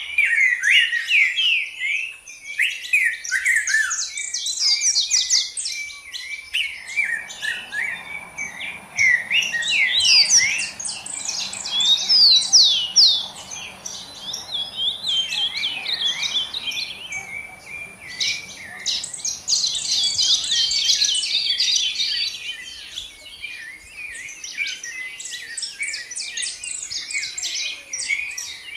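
Several songbirds chirping and singing at once, a dense, continuous chorus of quick overlapping chirps and trills.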